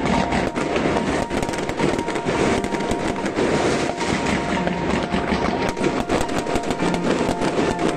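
Many fireworks going off at once in a dense, continuous crackling and popping, with frequent sharp bangs.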